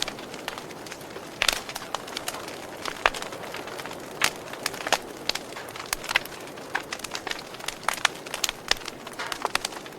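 Wood fire crackling: irregular sharp pops and snaps, a few of them loud, over a steady hiss of burning.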